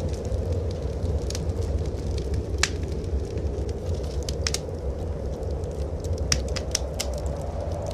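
Wood fire crackling, with sharp irregular pops scattered through, over a steady low rumble of blizzard wind.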